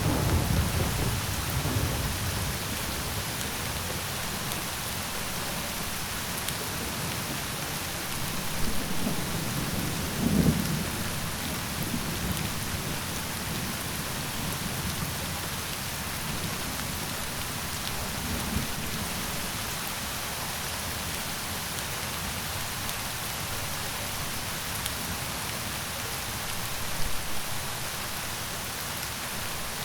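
Steady rain falling, with several low rumbles of thunder: one at the start, the loudest about a third of the way in, and weaker ones past the middle and near the end.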